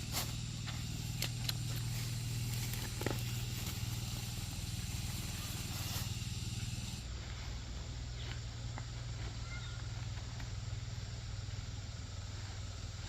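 A steady low motor hum, like an idling engine, with a few sharp clicks and knocks in the first few seconds.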